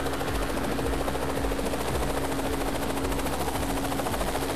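Helicopter in flight: steady rhythmic rotor chop with a constant tone running underneath.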